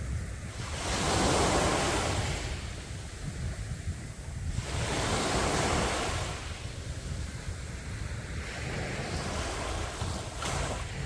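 Sea waves breaking and washing up the beach: two loud surges of surf, then a softer one near the end, over a steady low rumble of wind on the microphone.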